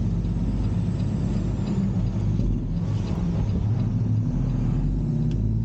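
Peterbilt semi truck's diesel engine running while pulling a loaded trailer, heard from inside the cab as a steady low drone. Its pitch shifts slightly about halfway through.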